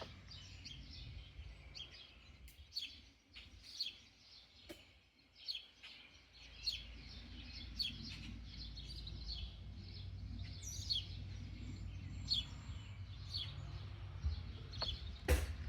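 Small birds chirping repeatedly, short falling chirps, over a low outdoor rumble, with a sharp click near the end.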